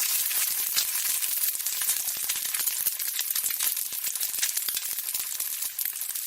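A dense, steady crackling hiss made of many tiny pops, like sizzling.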